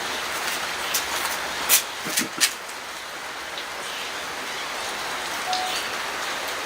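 Steady rain falling, with a few sharp knocks about one to two and a half seconds in.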